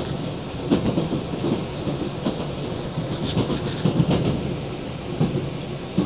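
Train running on rails: a steady low rumble with irregular clacks and knocks.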